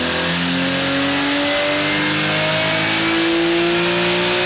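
Toyota Supra's factory B58 turbocharged inline-six pulling under load on a chassis dyno, its revs climbing slowly and steadily throughout.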